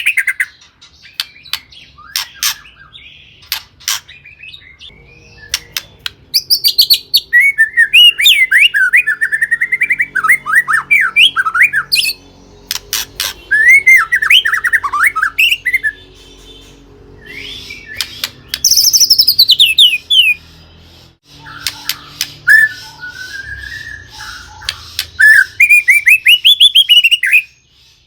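White-rumped shama (murai batu) singing a long, varied song of rapid whistled phrases that sweep up and down, in bouts with short pauses. Sharp clicks are mixed in between phrases.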